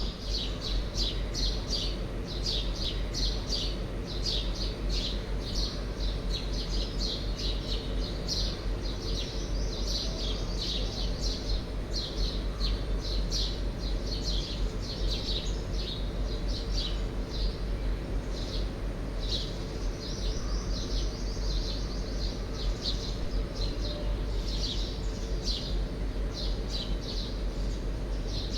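Birds chirping over and over, short high calls several times a second, over a steady low hum.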